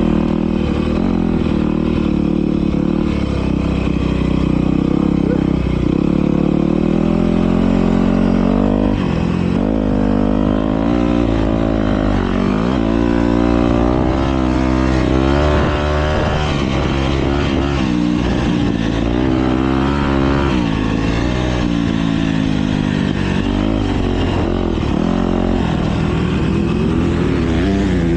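Several motocross bikes racing, their engines repeatedly revving up and dropping back as riders shift and throttle through the course, over a constant engine drone.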